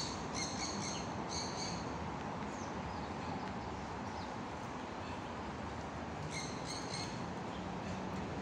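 Birds chirping in quick runs of short, high calls, twice: near the start and again about six seconds in. A steady background hiss runs under them.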